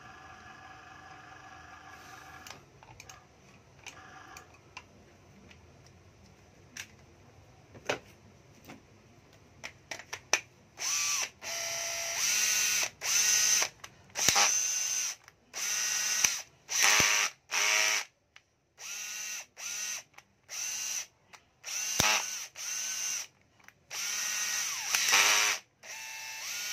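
Hitachi cordless drill-driver run in short trigger bursts of about a second each, the motor spinning up with a rising whine each time. The first ten seconds or so hold only light scattered clicks of the tool being handled.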